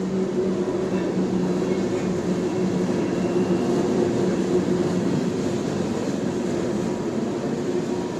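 Canadian National freight train rolling past: a steady rumble of the train on the rails with a low hum running under it.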